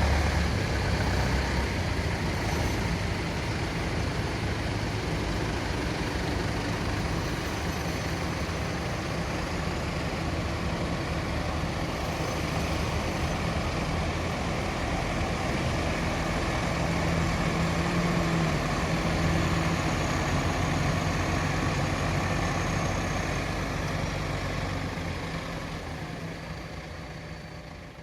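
A vehicle engine running steadily, fading out over the last few seconds.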